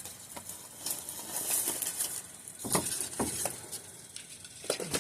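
Rummaging through trash in a dumpster: scattered clicks, rustles and knocks of bags and boxes being shifted, with a few louder knocks around the middle and near the end.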